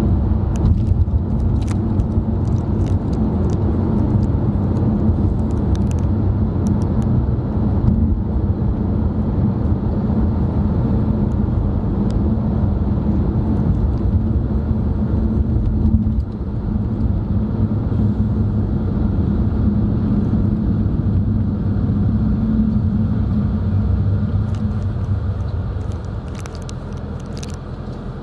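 Steady low rumble of engine and tyre noise heard inside a moving car's cabin, with a few faint ticks near the start and end; it eases slightly near the end.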